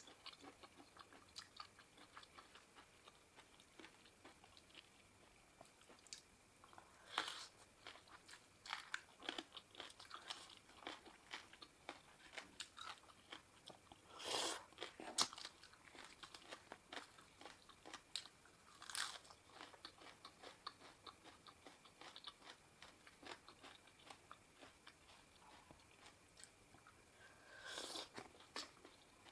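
A person chewing and crunching mouthfuls of spicy seafood papaya salad close to the microphone, with many small wet clicks. A few louder bursts come about a quarter, half, two-thirds of the way in and near the end.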